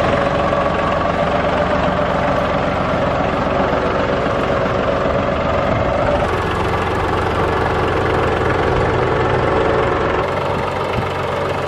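Tractor engine running steadily as it pulls a rear blade, spreading and grading crushed concrete; one of its higher tones drops away about six seconds in.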